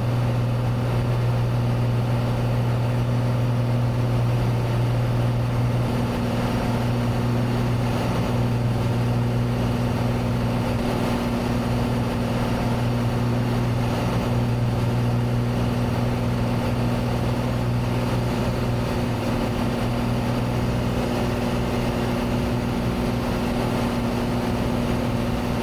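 Cessna 182T's six-cylinder Lycoming IO-540 engine and propeller in flight, a steady unchanging low drone.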